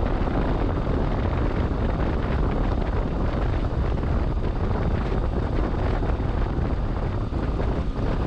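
Wind rushing over the microphone with road and engine noise from a motorcycle riding at speed on a snowy road.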